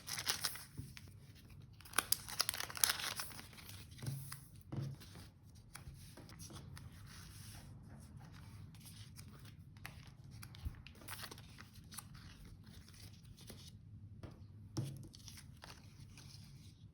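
Paper and stationery being handled at close range: a stretch of tearing and crinkling about two seconds in, then scattered soft rustles and light taps.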